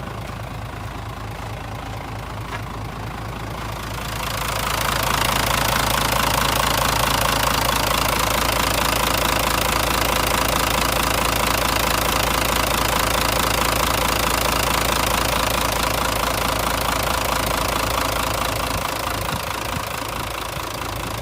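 Mitsubishi Fuso Fighter truck's 6M61 straight-six diesel engine idling. About four seconds in a louder, higher-pitched rushing sound comes up over it, holds steady, and eases off near the end.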